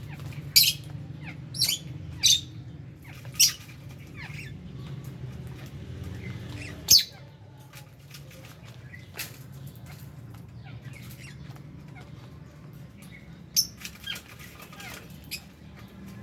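Aviary lovebirds giving short, sharp, high-pitched chirps, several in quick succession at first, then one about seven seconds in and a couple more near the end, with wing flutters among them. A low steady hum runs underneath and drops off about halfway through.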